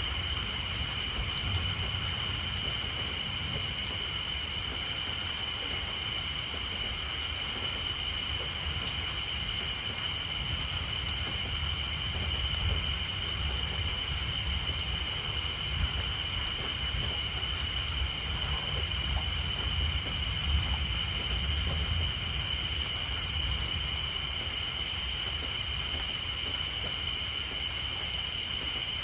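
Rain pattering on a tin roof over a steady high-pitched chorus of tree frogs, with a low rumble of distant thunder swelling and fading in the middle.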